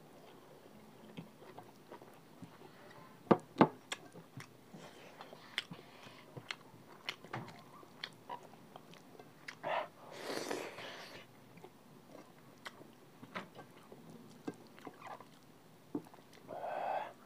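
Close-miked mouth sounds of a person chewing a mouthful of rice and curry gravy: many small wet clicks and lip smacks, with two sharper clicks a little after three seconds in and a longer breathy noise about ten seconds in.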